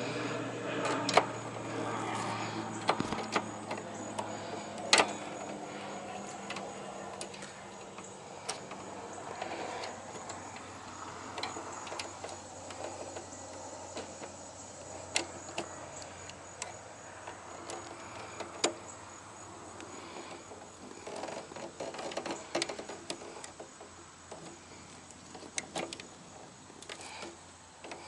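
Irregular clicks, taps and light metal clatter of hand work on wiring and breakers in an electrical panel, with a few sharper knocks. A low steady hum fades away over the first several seconds.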